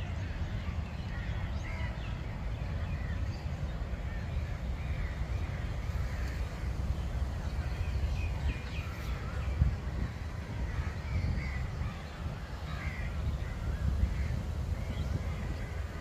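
Birds calling, with short calls scattered throughout, over a steady low rumble.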